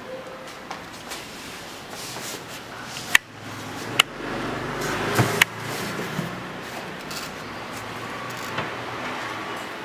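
IDEAL 2360 paper shredder running. It gets louder for a few seconds in the middle, with several sharp clicks.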